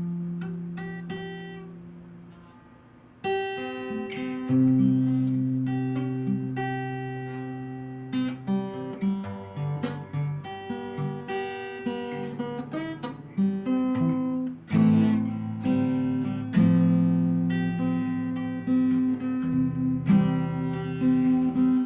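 Acoustic guitar played solo. A chord rings out and fades, then from about three seconds in, strummed and picked chords follow one another steadily.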